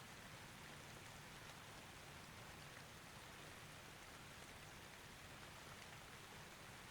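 Faint, steady rain falling, with scattered small ticks of single drops.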